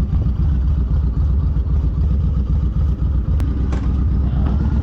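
Motorcycle engine running steadily, a dense low rumble heard on the rider's own bike.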